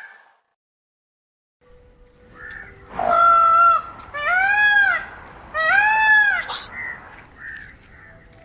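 Indian peafowl calling: after a brief silence, three loud, arched, wailing calls about a second and a half apart, with fainter calls from other birds around them.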